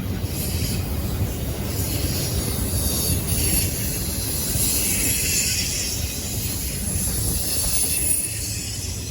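Freight train cars rolling past on the rails, a steady rumble with high-pitched wheel squeal.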